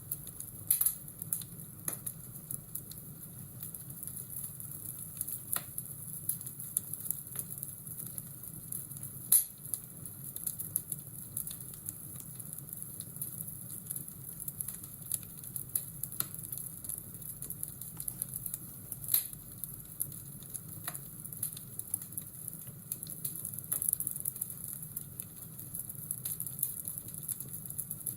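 Crackling fireplace fire: a steady hiss with scattered snaps and pops, a few louder ones standing out, the loudest about nine seconds in.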